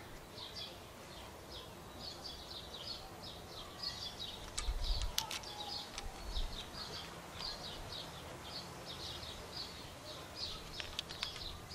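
Birds chirping in a long run of short, high notes, two or three a second. A few sharp clicks of metal parts being handled come about four to five seconds in and again near the end, with a brief low rumble in the middle.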